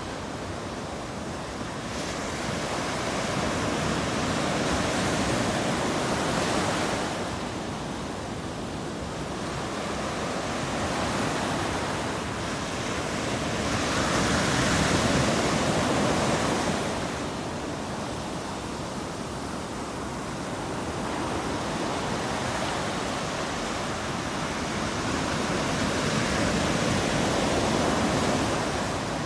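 Ocean surf breaking on a beach: a steady wash of waves that swells and ebbs in slow surges every several seconds, with a little wind on the microphone.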